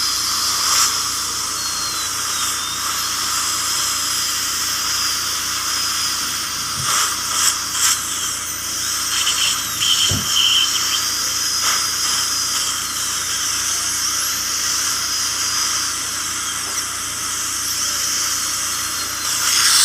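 High-speed dental drill (air-turbine handpiece) cutting a tooth: a steady high-pitched whine that wavers slightly in pitch, over a constant hiss of air and water spray, with a few brief clicks.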